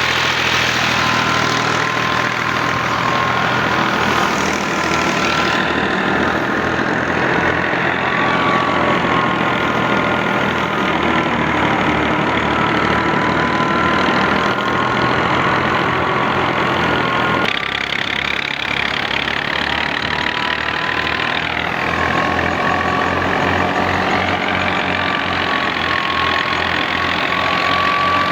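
Al-Ghazi tractor's diesel engine running steadily while driving harvest machinery, with a high whine that drifts slightly in pitch over the engine's drone.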